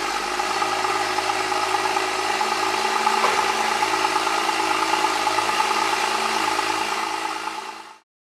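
Porsche Boxster Spyder 981's 3.8-litre flat-six idling steadily just after a cold start, fading out near the end.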